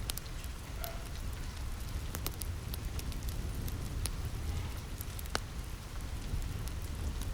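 Steady rain on a roof mixed with a crackling wood fire: a constant hiss over a low rumble, with sharp pops scattered irregularly, roughly one every second or so.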